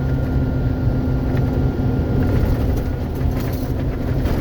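Steady road and engine noise heard from inside a moving car's cabin, with a faint steady high tone above it.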